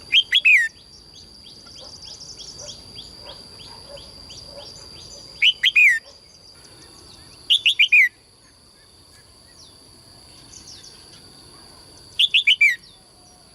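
Songbird singing in short, loud phrases of three or four quick notes, each note falling in pitch. The phrases come four times, with fainter chirps in between and a steady high-pitched whine underneath.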